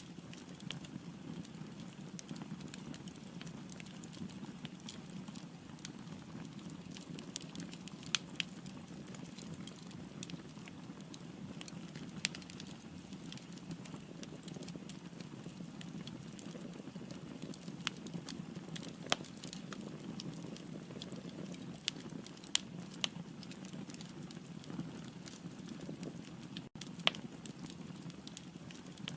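Firewood burning in a fireplace: a steady low rush of flame with continual crackling and scattered sharper pops.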